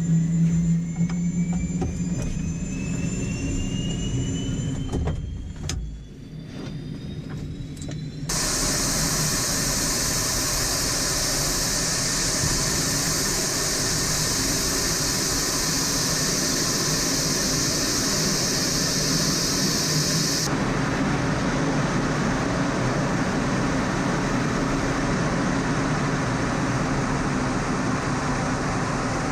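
Jet engine noise: a low hum with a rising whine over it, then, after an abrupt cut about eight seconds in, a loud steady roar with strong high hiss that eases suddenly about two thirds of the way through while the roar goes on.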